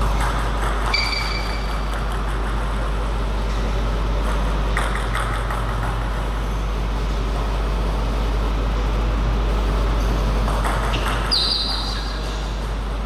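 Table tennis play: clusters of sharp ball clicks over steady hall noise and a low hum, with two short high squeaks, one about a second in and one near the end.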